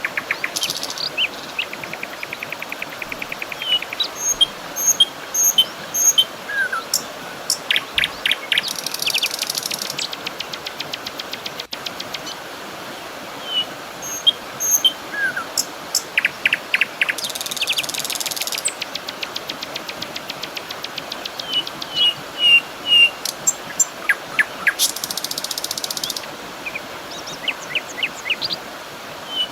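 Several birds chirping and singing, with short high chirps and fast buzzy trills over a faint steady hiss. The same passage of calls comes round again about every 14 seconds.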